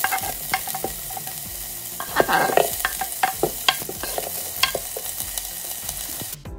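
Diced onion, garlic, ginger and scallions sizzling as they drop into hot oil in an Instant Pot's stainless steel inner pot on sauté. Sharp clicks and knocks of pieces and the wooden cutting board against the pot run through it, with a busier cluster a couple of seconds in.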